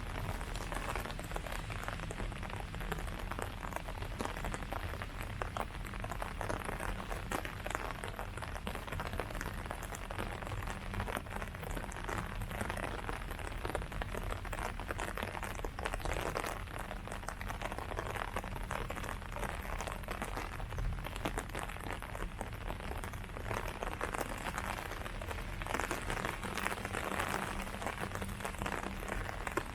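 Steady rain pattering on leaves, many small drops tapping without pause.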